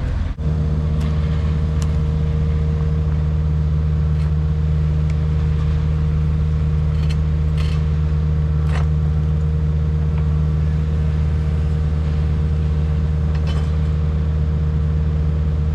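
Heavy construction machine's diesel engine running at a steady speed, a constant low drone that cuts in sharply at the start, with a few faint clicks over it.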